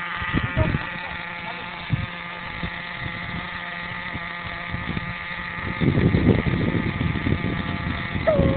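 Radio-controlled monster truck's motor running with a steady high-pitched hum, with a few short knocks early on. From about six seconds in a louder, rougher noise joins it.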